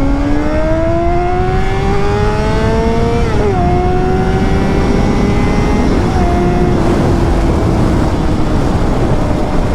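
Inline-four engine of a 2006 Honda CBR600RR with a Yoshimura exhaust accelerating, its pitch climbing steadily, then dropping at an upshift about three seconds in and pulling on at a steady pitch. Wind noise runs underneath.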